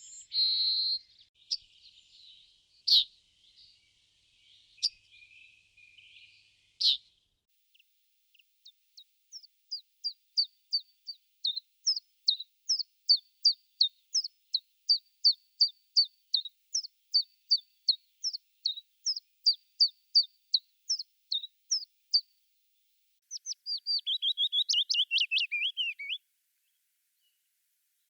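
A songbird singing: a long run of short, high, down-slurred chirps at about two to three a second, growing louder, then after a brief pause a fast trill of falling notes. Softer, jumbled chirping comes before the run.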